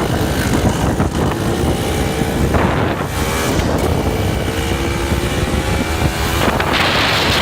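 Dirt bike engine running while riding, its pitch climbing gently, under heavy wind buffeting on the microphone. Near the end a loud steady hiss takes over.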